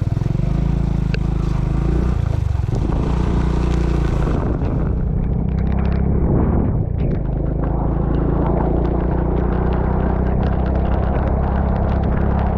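A vehicle engine running steadily under the rumble of wind on the action camera's microphone while travelling. A high hiss over it falls away about four and a half seconds in.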